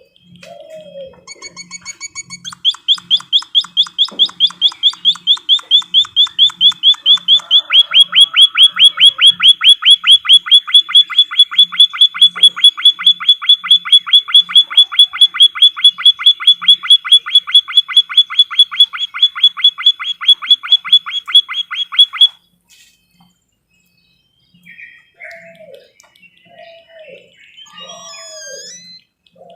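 Recorded songbird song: a loud, rapid trill of sharp, evenly repeated notes that runs for about twenty seconds and stops abruptly, followed by softer scattered chirps and low downward-sliding calls.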